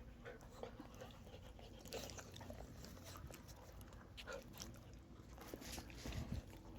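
A dog chewing: faint, irregular crunching clicks.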